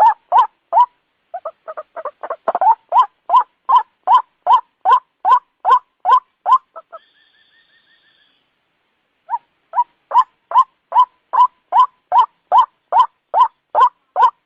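White-breasted waterhen calling: a long run of harsh repeated notes, about two or three a second. The calls break off about seven seconds in for roughly two seconds, leaving a faint thin whistle, then start again.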